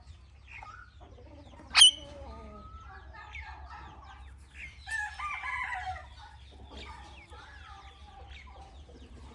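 Indian ringneck parrot chirping and chattering in a run of short squeaky calls. It gives one sharp, very loud screech about two seconds in and a longer, harsh call that falls in pitch around five seconds in. A steady low hum runs underneath.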